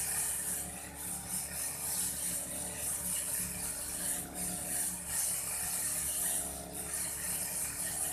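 Old Aldo brush cutter running steadily while cutting grass, a mechanical rattling whir whose loudness swells and dips every second or so.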